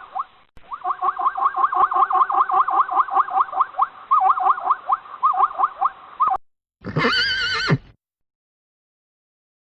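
Recorded animal calls: a rapid run of short, squeaky calls, several a second, for about six seconds, then after a short gap one wavering call of about a second that resembles a horse's whinny, ending abruptly.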